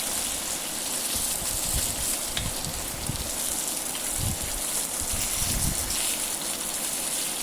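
Masala-coated fish frying in oil, a steady sizzling hiss with a few faint pops.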